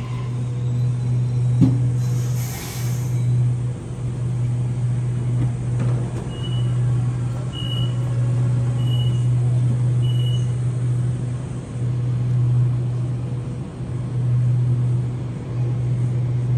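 Sydney Trains double-deck electric train standing at the platform with its doors open, its onboard equipment giving a steady low hum. A short hiss of air comes about two seconds in, and four short high beeps sound about a second apart near the middle.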